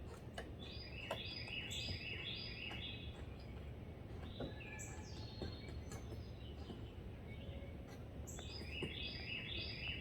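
Outdoor bird song: a quick run of repeated chirping notes near the start and again near the end, with a single call in between. Under it are a few scattered sharp taps and a steady low background rumble.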